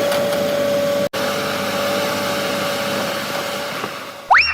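Excavator engine running steadily, a droning hum with a high held whine over it. Near the end a quick whistle rises sharply and then slides down.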